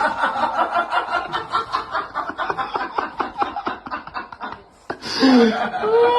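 A person laughing in quick, rapid chuckles for about four and a half seconds. After a brief pause, a short pitched vocal sound slides down and then up in pitch near the end.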